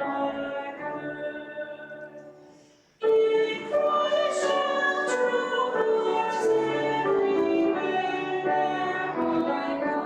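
A hymn sung with instrumental accompaniment. The music fades almost to nothing between phrases, then comes back in loudly about three seconds in.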